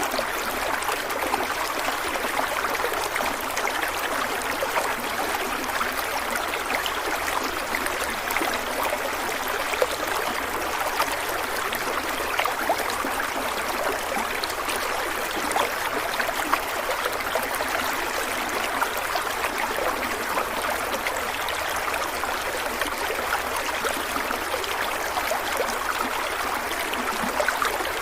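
A stream of water running steadily over rocks, with a continuous rush and many small splashes and trickles.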